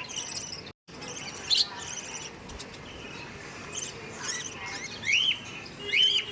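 African lovebirds giving sharp, high, arching chirps, single calls spaced a few seconds apart, with several close together near the end. All sound cuts out briefly just under a second in.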